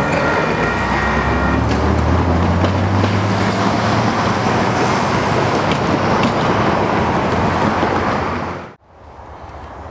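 Freight train's cars rolling on the rails, a loud steady rumble and rattle, with a high steady ringing tone in the first second and a half. The sound cuts off suddenly shortly before the end, leaving a quieter background.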